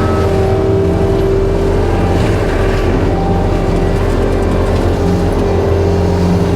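Skid steer's diesel engine running steadily under load with a forestry mulcher head, a constant drone with a steady whine over it.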